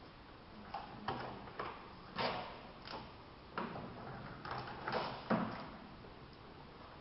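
Irregular clicks, knocks and scrapes of hand tools and car parts being handled, about a dozen sharp sounds spread unevenly, the loudest a little past five seconds in.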